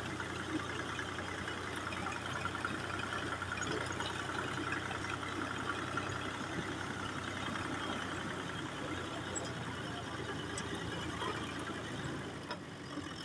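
Fiat 480 tractor's diesel engine running steadily.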